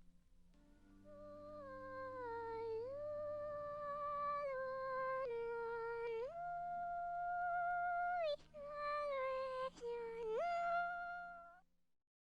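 Wordless female singing: long held notes that slide from one pitch to the next, over a faint low sustained drone. It fades out near the end.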